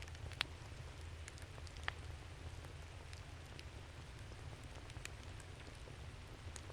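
Wood campfire crackling: scattered small pops and ticks, with two sharper snaps, one about half a second in and one about two seconds in, over a low steady rumble.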